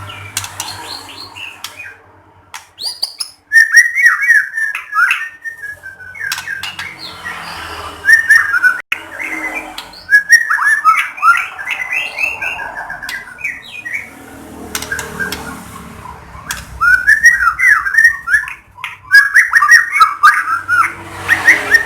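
White-rumped shama (murai batu) singing in repeated bursts of rapid, varied whistled notes, with short pauses between phrases.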